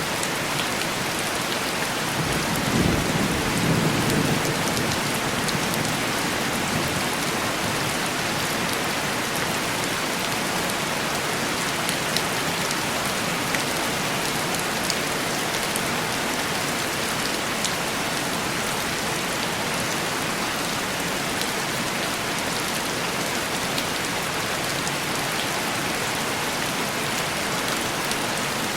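Steady heavy rain on a cabin window, with scattered drops ticking on the glass. A low roll of thunder rises about two and a half seconds in and fades out a few seconds later.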